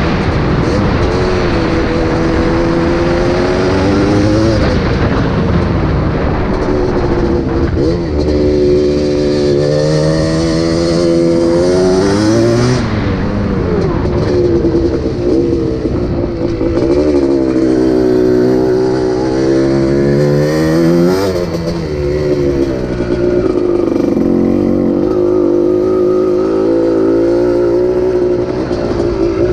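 Yamaha Tri-Z 250's two-stroke single-cylinder engine being ridden hard, its pitch rising and falling over and over as it revs up and shifts.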